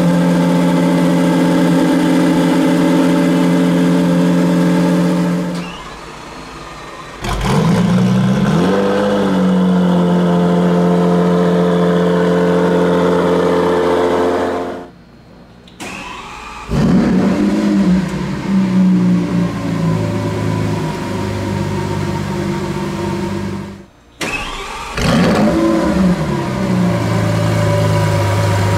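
Lamborghini Sián FKP 37's 6.5-litre V12 idling and starting up three times. Each start is a sudden loud flare that rises in pitch, then drops and settles into a steady idle, with a few quick revs after the second start.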